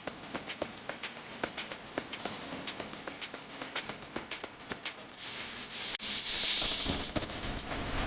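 Rapid, irregular tapping or clicking, several strikes a second, with a burst of hiss about five seconds in that lasts roughly two seconds.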